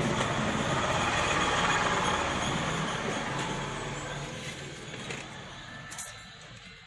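A motor vehicle going past, its engine and road noise swelling for about two seconds, then fading away.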